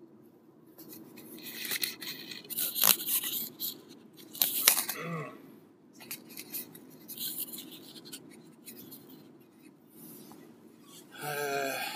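Rustling and scraping of a headset microphone rubbing against clothing on the driver's knee, in irregular bursts with two sharp clicks a few seconds in, over the steady low rumble of a moving car's cabin.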